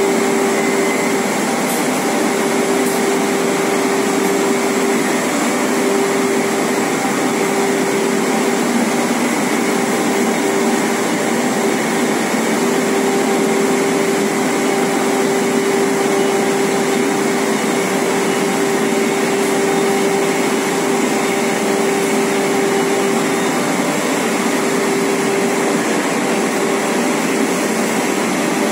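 Nonwoven fibre production line machinery running steadily: an even mechanical whir with a constant hum, unchanged throughout.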